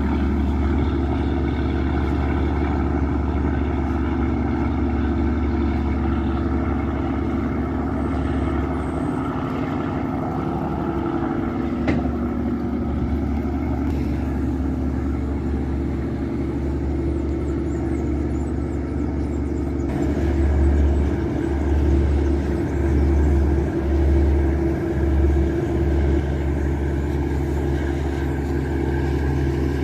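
Riverboat's Yanmar marine diesel engine running steadily under way, a loud even drone with a deep rumble. About two-thirds of the way through, the low rumble swells and dips several times.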